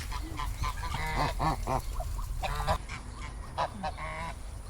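Geese calling, a quick run of short honks over about two seconds, then a few more a second later.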